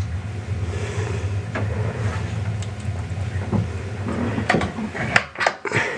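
Wood fire burning in the open firebox of a KawMet S12 Premium stove-fireplace, a steady low rumble; in the last two seconds come a few sharp knocks and clicks, as of the stove door being handled and shut.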